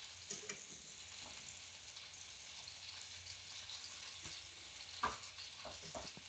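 Breaded chicken pieces frying in oil in a pan: a faint, steady sizzle with a few light clicks scattered through it.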